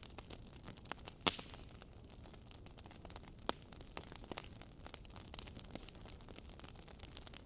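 Wood fire in a fireplace crackling, with a faint steady hiss under frequent sharp pops from the burning logs. The loudest pop comes about a second in.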